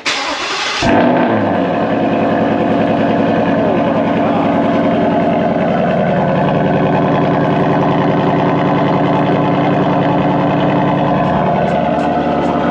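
Ford Mustang engine cold-starting through a new Corsa Extreme cat-back exhaust: the starter cranks for under a second, the engine catches with a brief flare about a second in, then settles into a steady fast cold idle. The exhaust valves were shut for this start.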